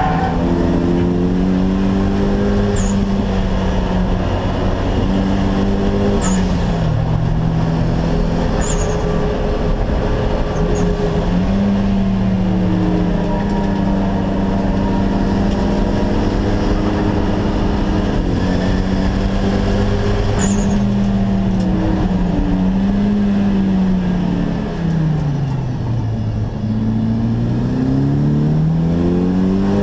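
Turbocharged SR20DET inline-four of a stripped Nissan Silvia track car, heard from inside the cabin, held at high revs under hard acceleration, with sudden drops in pitch at upshifts. Near the end the revs fall smoothly and then climb again.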